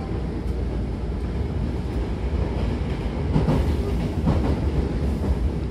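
Running noise inside a Hankyu 9000-series train car: a steady low rumble of wheels on rail, with a run of clacks over the rail joints about three seconds in.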